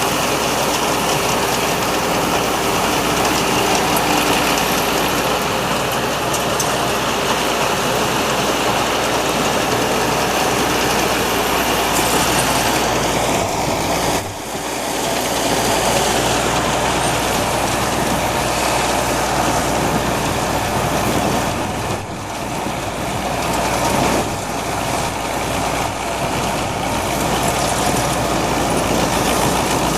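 Combine harvester with an Isuzu 6M61 diesel engine, running steadily under load with the clatter of its machinery. The noise dips briefly about halfway through and again about two-thirds through.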